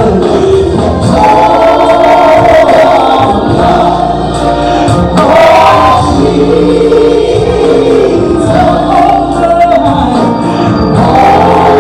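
Gospel singing: voices singing together over a loud instrumental accompaniment, the held sung notes changing every second or two.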